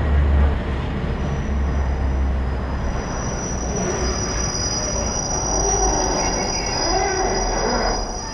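Train running past on the track with a low rumble and rolling noise. A high, steady wheel squeal sets in about a second in and grows stronger towards the end.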